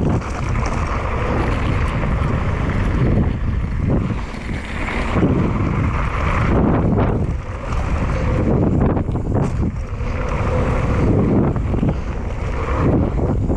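Wind buffeting the microphone over the rumble and rattle of a mountain bike rolling fast down a dirt trail, rising and falling in uneven surges.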